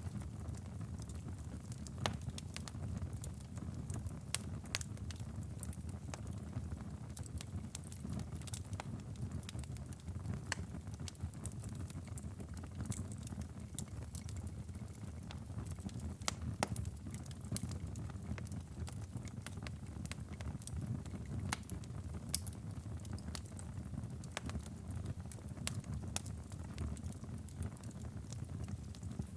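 Wood fire crackling and popping in a fireplace: scattered sharp pops at irregular intervals over a steady low rumble.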